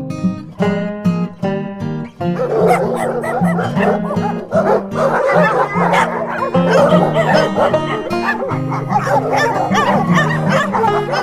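Dogs yipping and whimpering, many short wavering high calls overlapping one another from about two seconds in, over background music with steady low notes.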